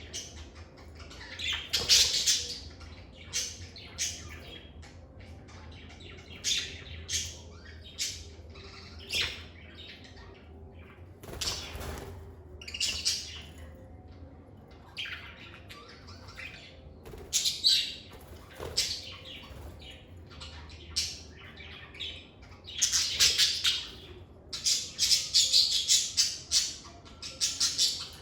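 Pet lovebirds calling: short, shrill chirps and squawks at irregular intervals, coming in quick runs near the end.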